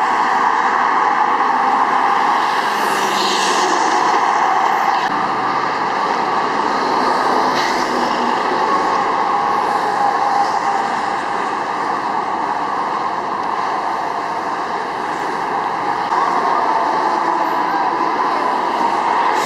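Steady highway traffic noise from tyres on the road, with single vehicles passing by about three and seven seconds in.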